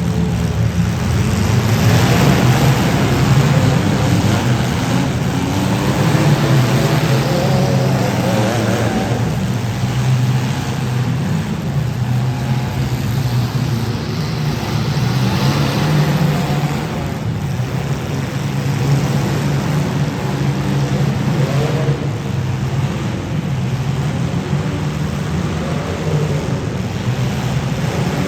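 Demolition derby cars' engines running loud and revving.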